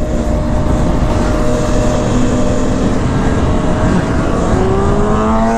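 Motorcycle engine running at a steady speed under heavy wind noise, then rising in pitch as it accelerates near the end.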